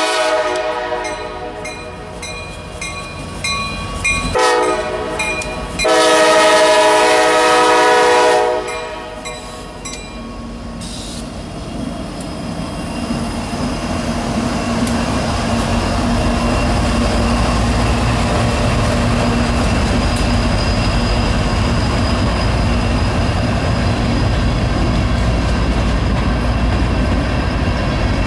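Diesel locomotive air horn blowing a chord, echoing off buildings. One blast dies away in the first second or so, a short blast comes about four seconds in, and a long, loud blast follows from about six to eight and a half seconds. After the horn the CSX SD70MAC-led freight train rumbles steadily past, its cars clattering on the rails.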